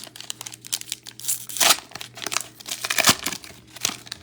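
Foil trading-card pack wrapper crinkling and tearing as it is ripped open, a dense run of sharp crackles, loudest about a second and a half in and again near three seconds.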